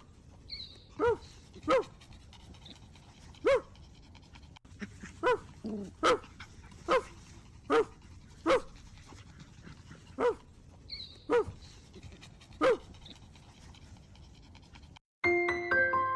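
A puppy barking in short, high-pitched yaps, about a dozen single barks spaced irregularly with pauses between. Piano music starts about a second before the end.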